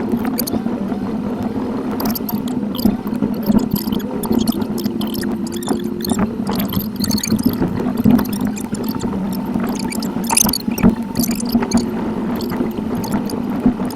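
In-car dashcam sound played back at eight times speed: road and engine noise turned into a fast, gurgling, water-like jumble, with squeaky chirping glides and frequent clicks over a steady hum.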